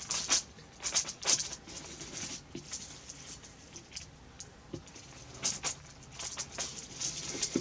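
Rope being wound and pressed down by hand around a plastic pot, giving short, scattered rustles and scrapes.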